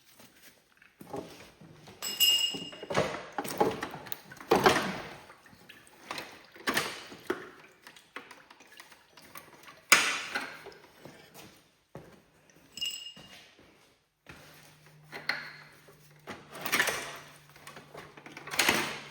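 Hand work on a garden tractor: irregular clanks, knocks and rattles of tools and metal parts being handled, with two short, bright metallic pings. A low steady hum comes in about three quarters of the way through.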